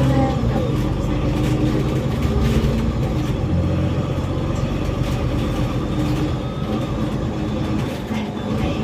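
Inside a moving bus: the engine runs steadily under road rumble, its note stepping up and down in pitch, with occasional light rattles from the cabin.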